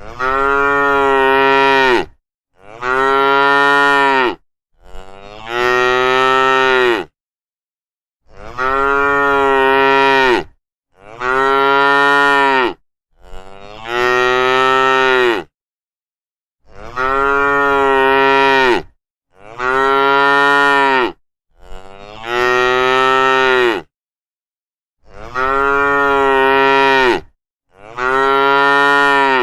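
Cows mooing: long drawn-out moos of about two seconds each, in sets of three, with dead silence between calls. The same three moos repeat about every eight seconds, as if looped.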